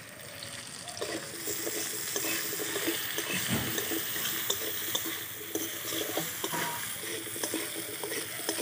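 Potato cubes frying in hot mustard oil in a steel karahi, a steady sizzle, with a metal spatula clicking and scraping against the pan near the end.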